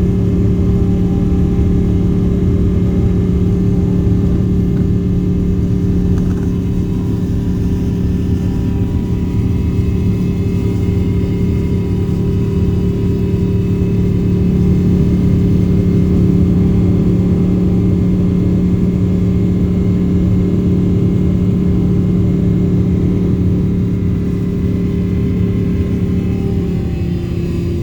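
Jet airliner's engines heard from inside the cabin during take-off: a loud, steady drone with a low rumble and a constant hum. The hum shifts slightly near the end.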